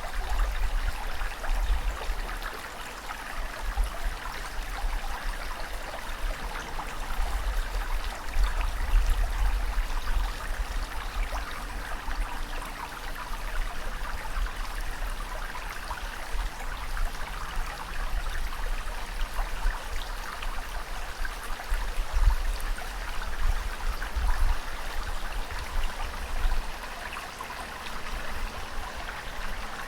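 Steady rush of moving water, with a low rumble that swells and fades every few seconds.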